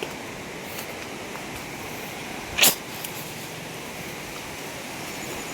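Steady rush of a waterfall's falling water. Halfway through, one brief sharp sound cuts in, louder than the rush.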